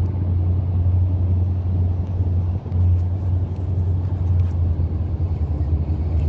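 Slow CSX freight train crossing a steel arch railway bridge overhead: a steady low rumble.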